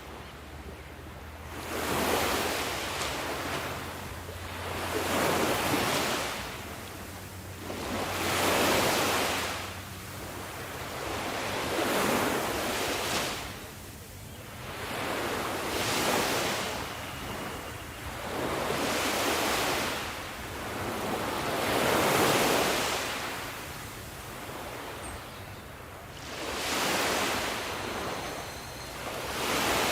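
Ocean waves breaking and washing up on a shore, the surf swelling and fading about every three to four seconds.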